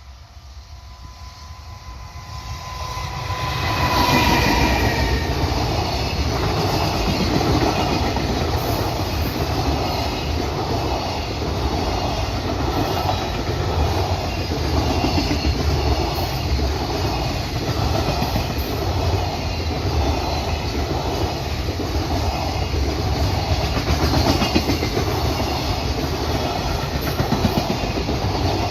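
Freight train arriving and passing close by: the sound builds over the first few seconds, with a thin high tone as it nears. Then a long, steady run of wagons rolls past, their wheels clattering over the rail joints in an even, repeating rhythm.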